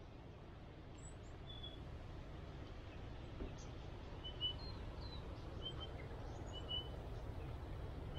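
Small birds chirping in bushland: short high chirps about once a second over a steady low rumble that slowly grows louder.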